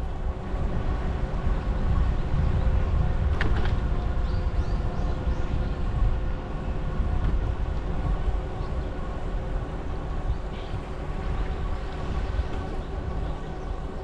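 Riding noise on a bicycle-mounted or handheld camera: steady low rumble of wind and motion on the microphone under a constant hum, with a few short high chirps and a brief click about three and a half seconds in.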